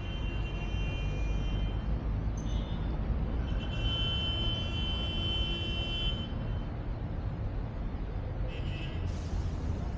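Road traffic going past, a steady low noise, with high steady tones that come and go: one held from about three and a half seconds in to about six seconds, and shorter ones at the start and near the end.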